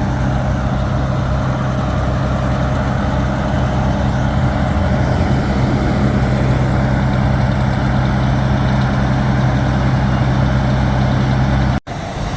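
A vehicle engine idling, a steady low hum that cuts out for an instant near the end.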